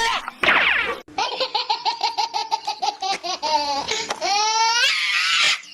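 A high-pitched laugh of rapid, evenly repeated ha-ha syllables, about five a second, that starts about a second in after a brief sliding vocal sound. Near the end it rises into a squeal and breaks into a breathy gasp.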